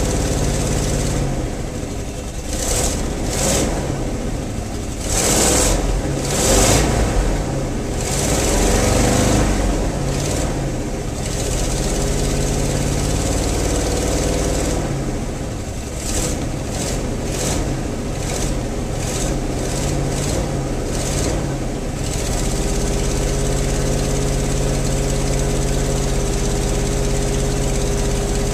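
1974 Ford F-250's engine running after a cold start. Its pitch rises and falls a few times in the first ten seconds or so, then it settles into a steady idle.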